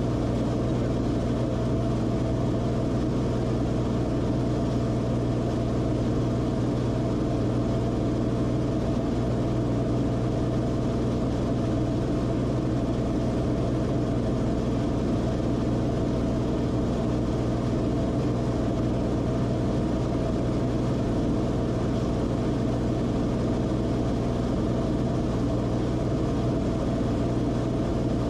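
Steady, even drone of the Cessna Corvalis TTX's turbocharged six-cylinder engine and propeller, holding a constant power setting.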